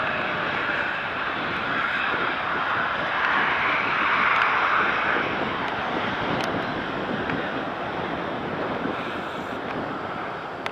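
Jet engines of a departing Boeing 787-8 airliner at takeoff thrust: a steady roar that peaks about four seconds in and then slowly fades as the aircraft moves away.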